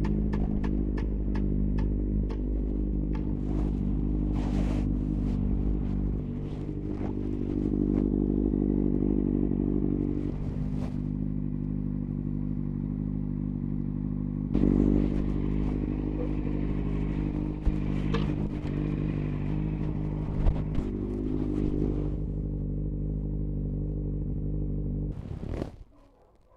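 Motorcycle engine running at a steady speed while riding, with scattered clicks, knocks and clattering over it; it cuts off abruptly near the end.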